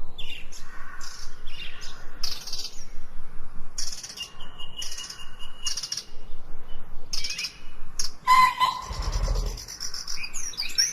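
Several songbirds chirping and calling in quick, overlapping phrases, one holding a thin steady whistle for a couple of seconds midway. There is a brief low rumble about nine seconds in.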